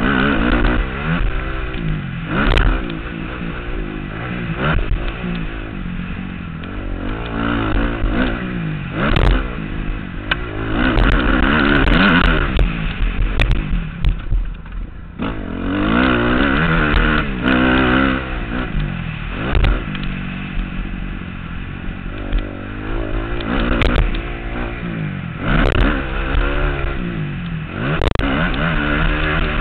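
Motocross dirt bike engine revving up and falling back again and again as the bike accelerates and slows around the track, heard from the rider's helmet. Several sharp knocks from the bike are spread through it.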